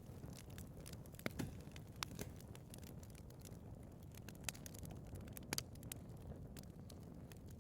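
Wood fire burning in a fireplace: a steady low rumble of flames with scattered sharp crackles and pops from the burning wood, a few louder pops standing out.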